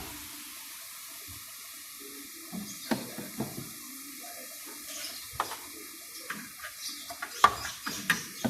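Running water, a steady hiss, with scattered sharp clicks and knocks, the loudest about three quarters of the way through.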